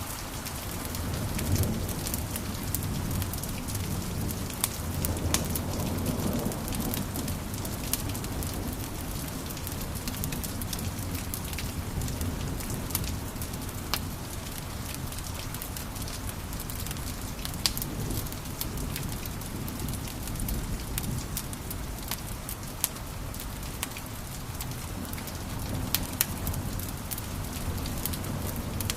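Wood fire crackling in a fireplace: irregular sharp pops and snaps over a steady low rumble of the flames, with a few louder pops along the way.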